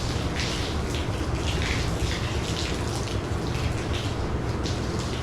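Wet sanding by hand with a sanding block on primed bodywork: repeated scratchy back-and-forth strokes, over a steady low hum.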